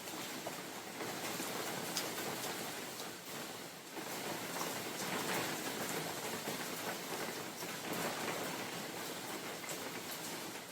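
Steady spring rain falling in a forest, many fine drops pattering, with soft swells of wind now and then.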